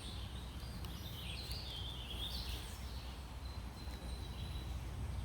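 Birds chirping and warbling, with a short steady whistled note near the middle, over a low steady rumble.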